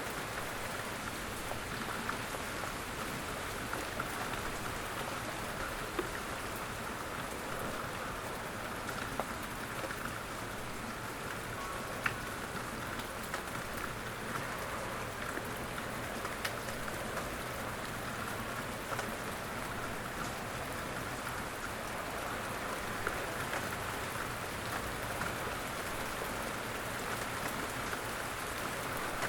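Steady rain falling, an even hiss with scattered single drops ticking sharply on a hard surface.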